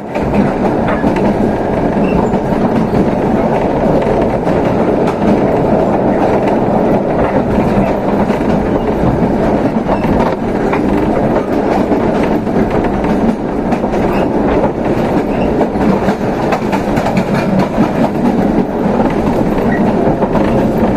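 Running noise of a Toyama Chihō Railway electric train heard from inside the passenger car: a steady rumble of wheels on rail, with scattered clicks over the rail joints.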